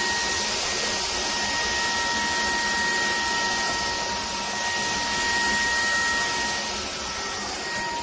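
JELLYPIG cordless stick vacuum cleaner running steadily: a rushing of air under a steady high whine from its motor.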